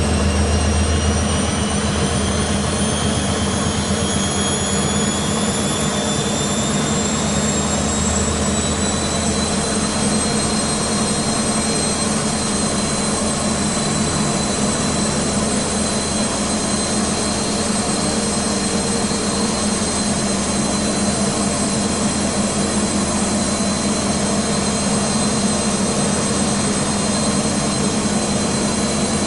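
Beko WMB 51441 front-loading washing machine spinning its drum: the motor's whine climbs in pitch for about the first ten seconds as the drum speeds up, then holds steady at spin speed over a constant rush of noise.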